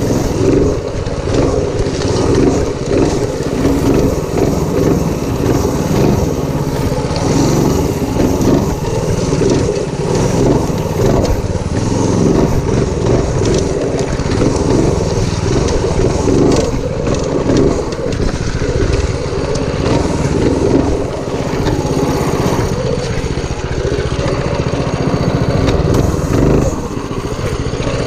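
Predator 212cc single-cylinder four-stroke engine on a minibike running hard, its level wavering throughout and dipping briefly near the end.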